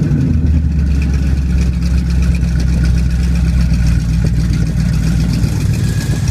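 1972 Ford Maverick engine idling steadily through an exhaust fitted with electric cutouts, a low, even rumble.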